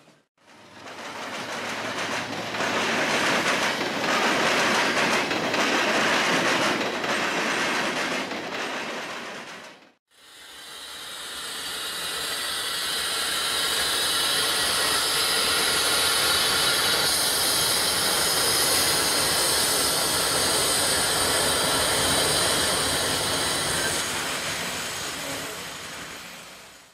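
Freight train of auto-rack cars rolling over a railroad diamond crossing, the wheels clacking in quick uneven beats. After a cut about ten seconds in, a CSX diesel locomotive leading a freight train approaches, growing louder, with a steady high-pitched wheel hiss over the running noise.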